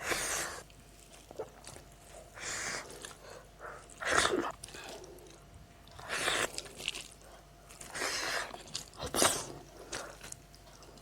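A person eating crunchy food close to the microphone: about six separate bites and chews, each a short crunchy burst, a second or two apart.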